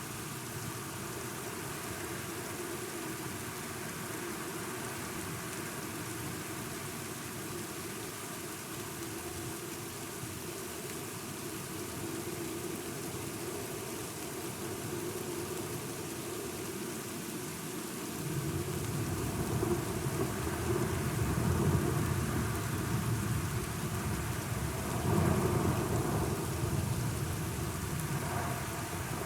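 Steady rain, with a deep rolling rumble of thunder starting about two-thirds of the way in; it swells twice and eases off near the end.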